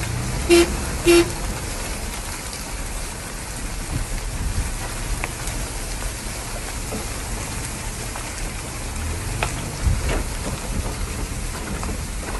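A steady rain-like rushing hiss, with two short pitched beeps about half a second and a second in, and a few faint knocks later on.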